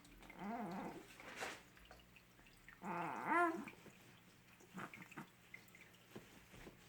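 A young baby cooing, two short sing-song vocal sounds whose pitch rises and falls, one at the start and another about three seconds in, with a few faint small clicks after.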